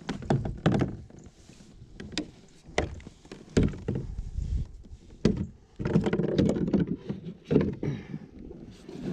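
Irregular knocks and thuds on a kayak: a dozen or so sharp taps, some heavier, with a longer stretch of rumbling and bumping about six seconds in.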